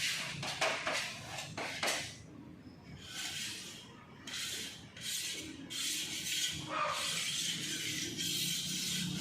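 Body filler being spread on a car body panel with a spreader: a series of scraping strokes, quick and short at first, then longer strokes of about a second each.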